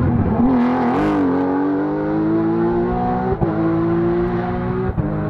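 Rally car engine accelerating hard, its pitch climbing steadily, with two quick upshifts: one at about three and a half seconds and one near the end.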